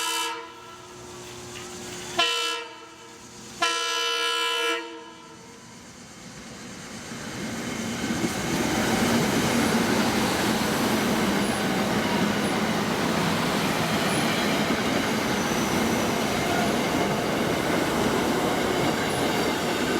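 SEPTA commuter train's horn ends one blast, then gives a short blast about two seconds in and a longer one ending near five seconds in. This is the close of the standard long-long-short-long grade-crossing signal. The train then approaches and passes close by, with a steady loud rush of wheels on rails from about eight seconds in.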